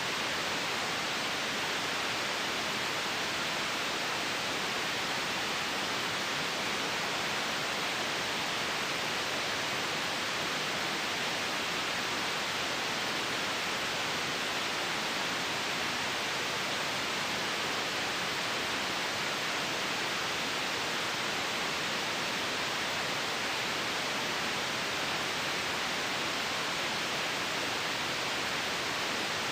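Steady white noise hiss, unchanging throughout, brighter in the upper-middle range than in the bass.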